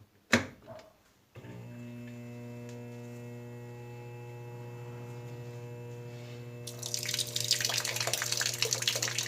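Electrolux LBU15 top-load washing machine filling with water: a steady electrical hum, then from about seven seconds in the louder splashing of water running into the drum. A sharp click comes near the start.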